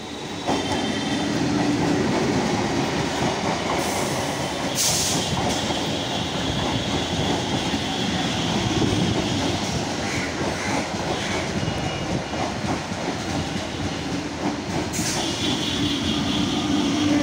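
Suburban electric multiple-unit (EMU) local train running in alongside the platform: a steady loud rumble and rattle of wheels on rails. High-pitched wheel squeals come twice, about five seconds in and again near the end.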